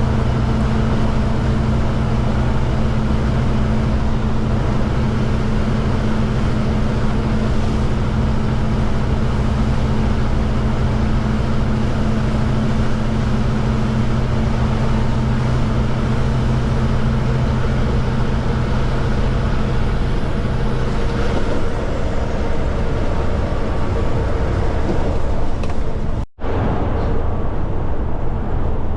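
Kenworth K200 cabover truck's Cummins diesel engine droning steadily at highway cruise, with road and tyre noise. The engine note eases slightly past the middle, and near the end the sound drops out for an instant.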